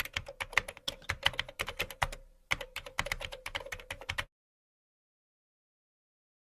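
Typing on a computer keyboard: quick key clicks, about six a second, with a short pause a little past two seconds in, stopping after about four seconds.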